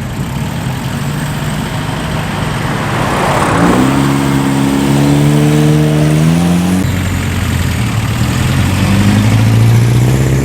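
Cars driving past on the road: one passes with a rush about three seconds in, and an engine note climbs as a car accelerates away; a second engine note climbs near the end as another car pulls away.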